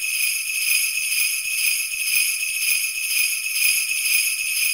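Bells jingling continuously, like sleigh bells shaken without pause, with a faint low beat about three times a second underneath.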